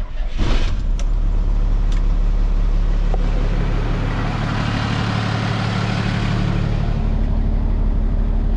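Car engine starting and then idling steadily. A hiss swells a few seconds in and fades again near the end.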